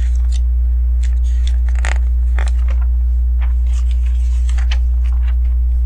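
Plastic LEGO pieces clicking and rattling as they are handled and pressed into place, a scattered series of short sharp clicks, over a steady low hum.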